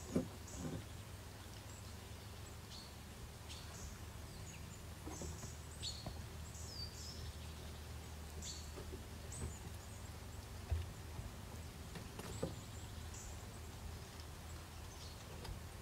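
Small birds chirping intermittently over a faint, steady low rumble, with a few soft knocks, the sharpest about eleven seconds in.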